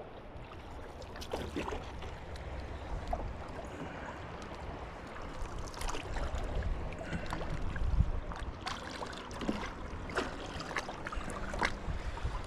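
Hand paddle strokes in calm shallow water: the blade dipping, splashing and dripping about every second and a half, over a low steady rumble.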